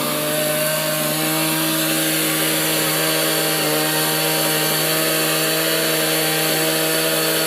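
A two-stroke chainsaw running at a steady high speed while hollowing out a dugout canoe, its engine pitch holding level.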